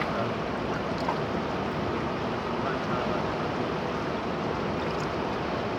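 Steady rushing of a fast-flowing river, an even noise without pauses.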